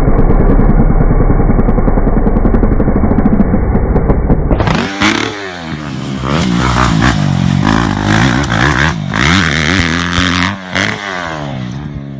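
Dirt bike engines running hard. About four and a half seconds in, a muffled engine gives way to a clearer one whose pitch rises and falls repeatedly as the throttle is worked.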